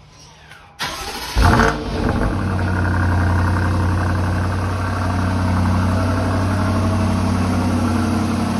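2021 BMW X5 M50i's twin-turbo 4.4-litre V8 on a cold start. The starter catches suddenly about a second in, the engine flares up loudly for a moment, then settles into a steady idle heard at the exhaust tips.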